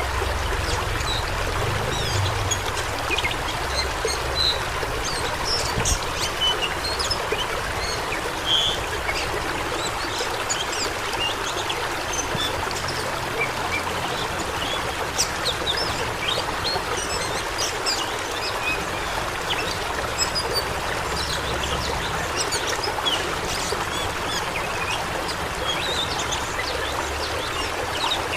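Rushing water: a steady, dense hiss with many short, scattered high-pitched sounds over it.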